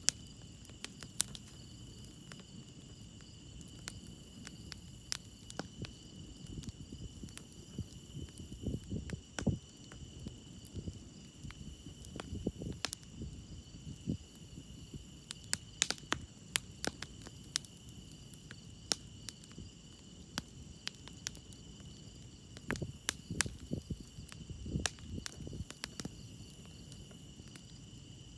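Campfire crackling, with irregular sharp pops and snaps and a few soft low rumbles, over a steady chorus of crickets chirping.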